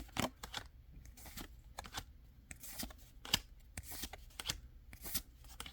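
Pokémon trading cards being slid and flipped one after another by hand, a series of short, irregular swishes and taps.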